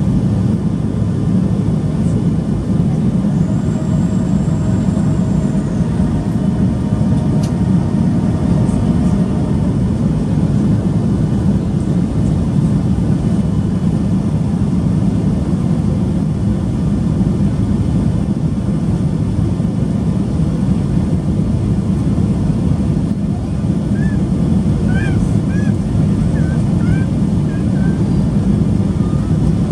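Steady cabin roar of a Boeing 737-800 in flight: the CFM56 turbofan engines and airflow over the fuselage, even and unbroken, with its weight in the low range.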